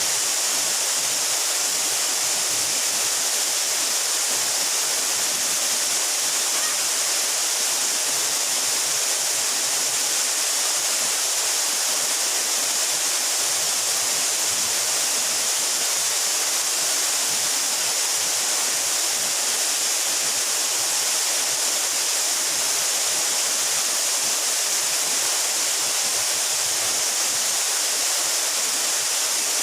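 Waterfall pouring steadily into a pool, an even, unbroken rush of falling water with its strongest hiss high up.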